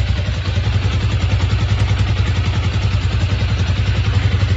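164FMM single-cylinder motorcycle engine running steadily with an even exhaust beat and no knock, the knock having been traced to the crankshaft.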